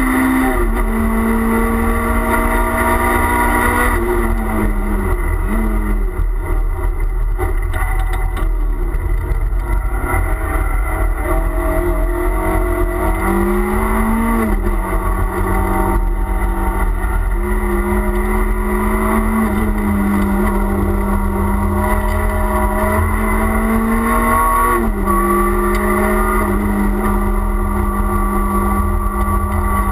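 Renault Clio Williams' 2.0-litre four-cylinder engine heard from inside the cabin at racing speed, with low road and tyre rumble beneath. The engine note drops away about four seconds in and sinks low, climbs back, then holds steady before rising again near the end.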